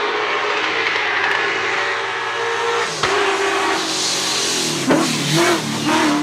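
A drift car's engine revs hard over the hiss of spinning tyres. Sharp changes in engine note come about three seconds in and again near the end, where the pitch swings quickly up and down as the throttle is blipped.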